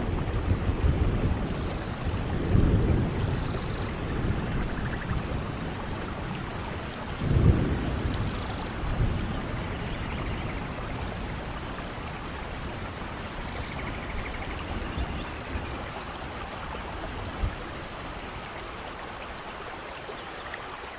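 Steady rain falling, with low rolling thunder rumbling in the distance; the loudest rumble swells about seven seconds in, and the storm eases slightly towards the end.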